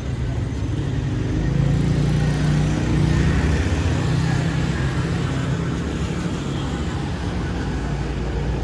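Road traffic running steadily. A vehicle engine gets louder about a second and a half in and eases off after about four seconds, as if it is passing close by.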